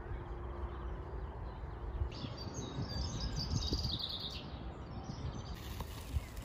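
Songbirds chirping and singing, busiest from about two seconds in for a couple of seconds, over a steady low outdoor rumble.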